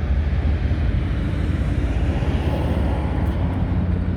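Diesel engine of a Link-Belt 210 X4 excavator running at a steady idle, a low even rumble.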